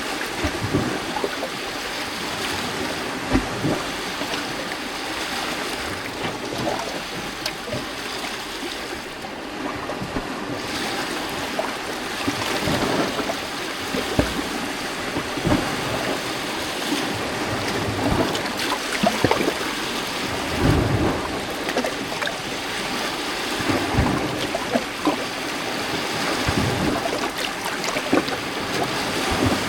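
Gentle lake waves washing onto a rocky shoreline: a steady splashing wash of water, with irregular low slaps as waves hit the rocks now and then.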